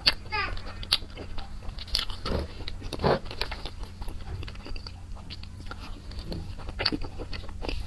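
Close-miked biting and chewing of crunchy chili peppers: irregular crisp crunches and mouth clicks, one louder crunch about three seconds in.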